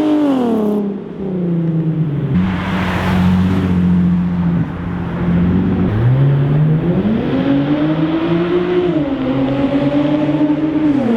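Nissan 370Z's 3.7-litre V6 through a Z1 Motorsports single exit race exhaust with test pipes in place of the catalytic converters. The revs fall at first and hold steady with a brief rush of noise about three seconds in, then climb for about three seconds, dip briefly, hold, and fall away again near the end.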